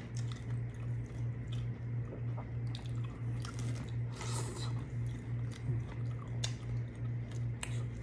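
Close-up eating sounds: biting and chewing crispy battered fried fish and shrimp, with scattered sharp crunches and a denser crunch about four seconds in. A steady low hum runs underneath.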